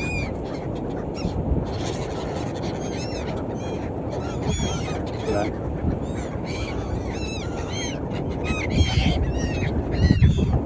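A flock of birds calling over and over, many short arched cries overlapping, over a steady rushing background noise.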